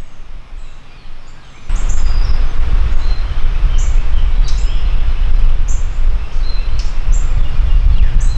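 Small birds chirping, short high notes about once a second, over a loud steady low rumble that comes in suddenly about two seconds in.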